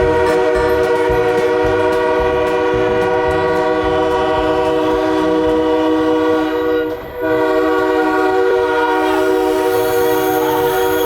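Locomotive multi-chime air horn sounding a long held chord, breaking off briefly about seven seconds in and then sounding again.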